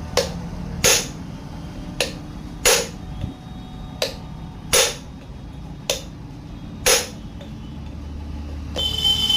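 Hammer blows on metal during a gearbox teardown: about eight sharp strikes, mostly in pairs roughly every two seconds, over a low steady hum.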